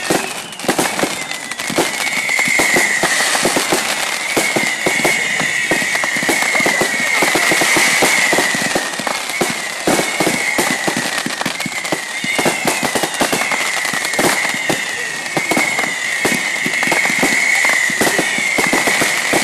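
Fireworks going off: a dense, continuous crackle of rapid small bangs. From about two seconds in, a high wavering tone repeats about every second and a half.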